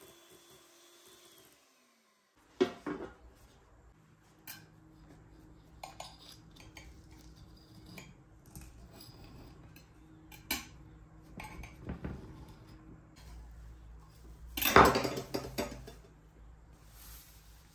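Kitchen utensils clinking and knocking against dishes: scattered sharp clinks, with the loudest clatter about fifteen seconds in, over a faint steady hum.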